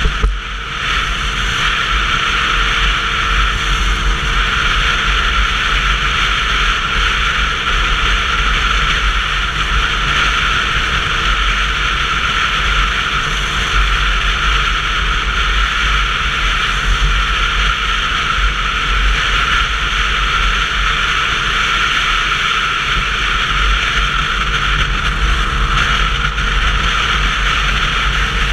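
Steady rush of wind and road noise on a GoPro carried on a Sinnis Terrain 125cc motorcycle at riding speed, with a heavy low rumble from wind buffeting the camera. The sound dips briefly just after the start.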